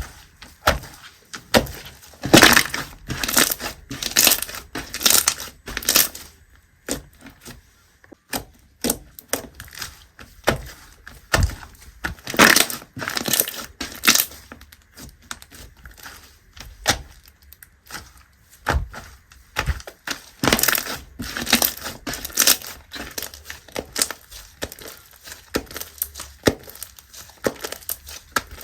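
Clear slime being squeezed and pressed by hand, giving irregular runs of sharp clicks and pops, with a few denser flurries.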